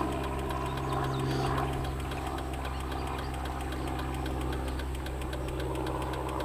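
An engine idling steadily: a low, even hum with a faint regular ticking.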